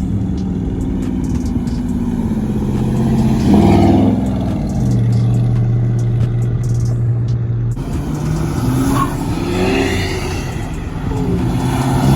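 Car engine revving: a sharp rev about three and a half seconds in, then a steady drone for a few seconds, then more rising and falling revs from about eight seconds in.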